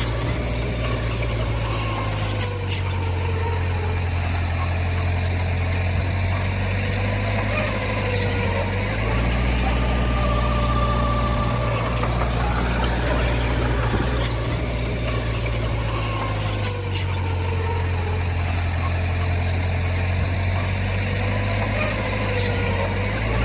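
Heavy earthmoving machinery's diesel engine running steadily, its low note shifting up and down in a cycle about every eight seconds as the load changes, with a faint whine wavering above it and a couple of light knocks.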